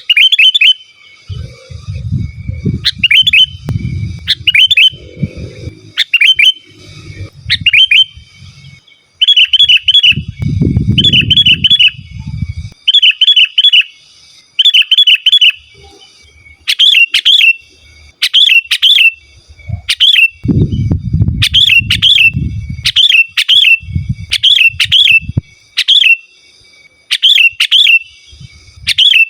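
Sooty-headed bulbul singing loudly and tirelessly: short phrases of a few quick bubbling notes, repeated about once a second. Low rumbling comes and goes underneath.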